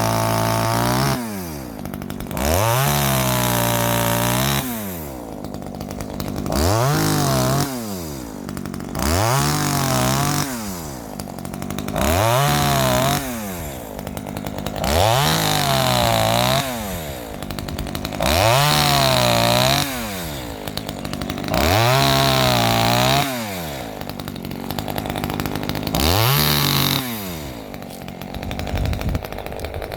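Small two-stroke top-handle chainsaw (Ozito 25.4cc, a Zenoah G2500 clone) opened to full throttle and let back to idle about every three seconds, its pitch sagging slightly under load while held high, as it makes a run of cuts. It is a bit doughy to rev, which the owner thinks is the carburettor diaphragm going.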